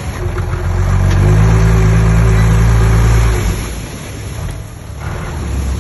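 Heavy diesel engine of the earthmoving machinery revving up about a second in, running loud and steady for about two seconds, then easing back to a lower running sound.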